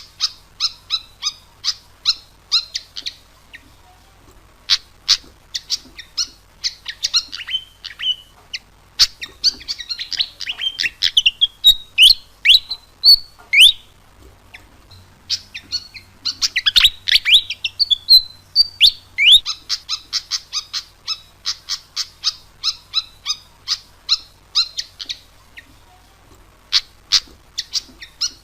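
Fantail (sikatan kipas) song used as a lure call: rapid runs of short, high chirps mixed with quick sweeping whistled notes, broken by a few brief pauses. A faint steady low hum lies underneath.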